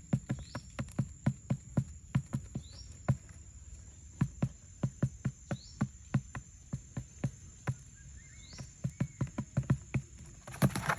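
Rapid, irregular sharp clicks or taps, several a second, over a steady high insect buzz, with a faint short chirp about every three seconds. A loud, rushing burst comes near the end.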